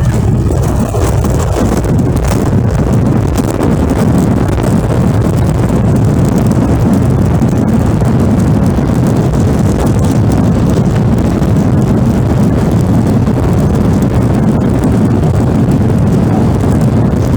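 Loud, steady rumble of a jet airliner heard from inside the cabin during landing: engine and airflow noise.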